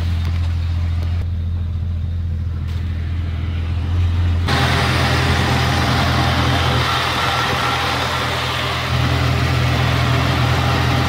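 Jeep engine idling steadily with the air conditioning switched on. About four and a half seconds in, the sound turns suddenly brighter and louder, heard up close in the open engine bay, and the hum steps up slightly again near nine seconds in.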